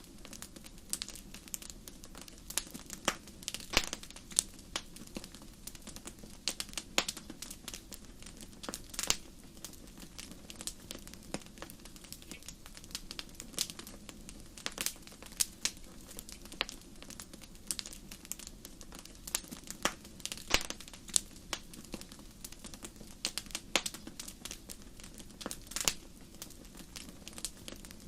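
Wood fire burning in a fireplace, crackling with frequent sharp, irregular pops over a low steady rumble of the flames.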